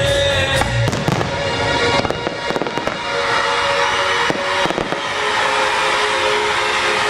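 Fireworks display shells bursting with sharp bangs, several in the first five seconds, over the display's music soundtrack.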